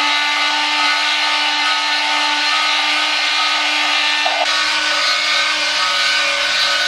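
Toy steam locomotive running: a steady mechanical whir with a hiss over it, which shifts slightly about four and a half seconds in.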